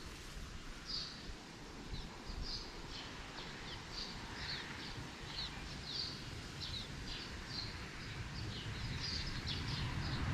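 Birds chirping, a string of short high calls, some falling in pitch, repeating throughout over a low outdoor rumble.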